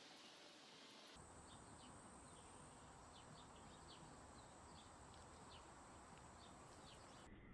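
Faint outdoor background noise with a scatter of short, faint bird chirps. The background changes abruptly about a second in, as at a cut between recordings.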